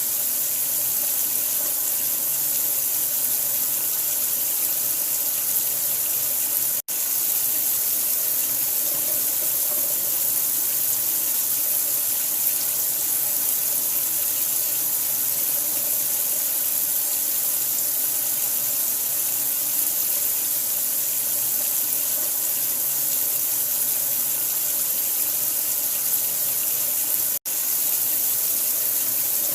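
Steady running water, an even rushing hiss heavy in the treble, used as a soothing sleep sound for a newborn. It cuts out for an instant twice, about 7 and 27 seconds in.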